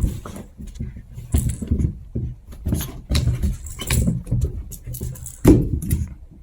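Chihuahua puppies play-wrestling: irregular scuffling and bumping, with a sharper thud about five and a half seconds in.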